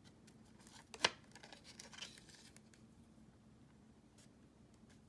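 Faint rustling of thread and paper being handled while a knot is tied, with one sharp click about a second in.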